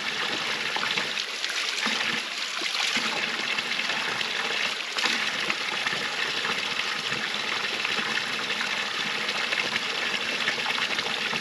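Water running steadily from a small roadside spring spout and splashing below.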